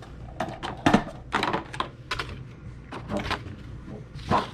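Irregular light clicks and knocks from small hard objects being handled and put down.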